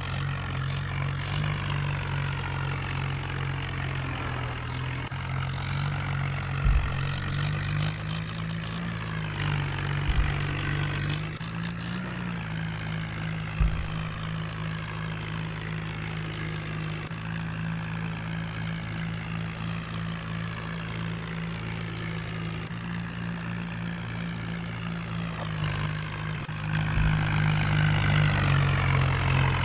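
Swaraj 855 tractor's three-cylinder diesel engine running steadily, with a few short low thumps, growing louder near the end.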